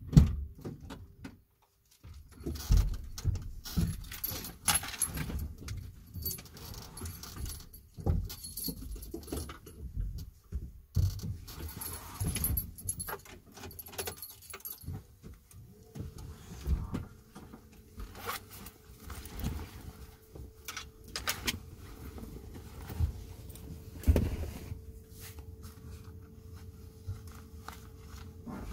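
Keys jangling amid irregular clicks, knocks and rattles of things being handled, with a steady low hum setting in about halfway through.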